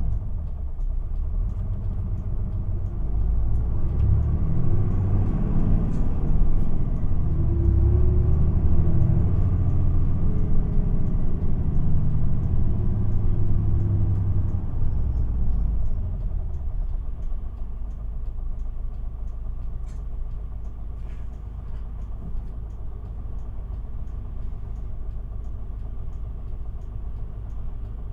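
Isuzu Erga city bus heard from inside the cabin, its diesel engine pulling louder from about three seconds in, with a rising then falling engine note. About sixteen seconds in it eases off and settles to a quieter steady hum.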